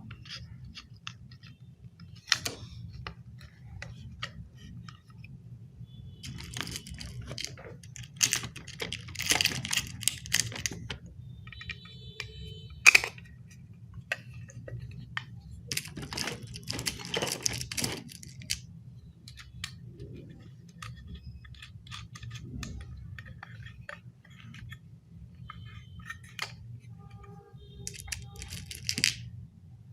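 Small plastic assembly pieces clicking and rattling as they are handled and snapped together, in several flurries, over a steady low hum.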